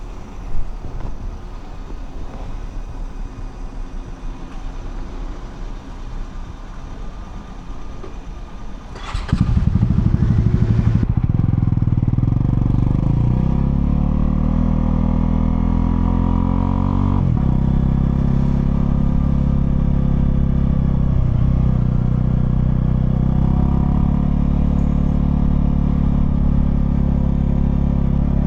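Honda CL250's single-cylinder engine running quietly at first. About a third of the way in it opens up loudly, the revs rise through a gear, then drop sharply at an upshift. After that it runs steady at cruising speed.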